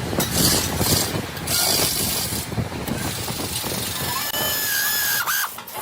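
Mechanical workshop noise: steady clatter with two bursts of hiss in the first half, then a thin squeal that rises near the end.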